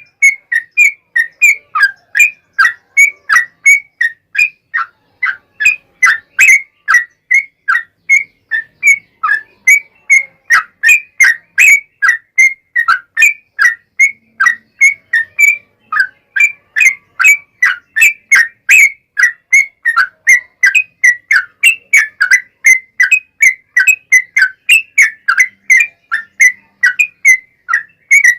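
Yellow-vented bulbul (trucuk) singing a long, unbroken run of short, rapid whistled notes, about three a second.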